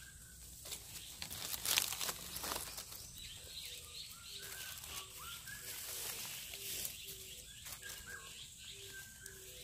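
Forest birds calling: a steady series of short low notes in two alternating pitches, about two a second, with brief rising chirps over them. A loud rustle of leaves or handling about two seconds in.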